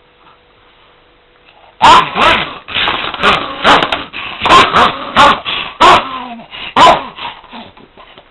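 Shiba Inu barking at a vacuum cleaner in a rapid string of loud, sharp barks. The barking starts suddenly about two seconds in and fades near the end.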